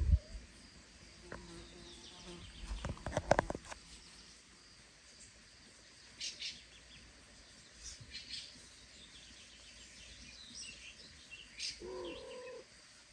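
Small birds chirping on and off, with a brief cluster of knocks about three seconds in, the loudest sound, and a short cat mew near the end.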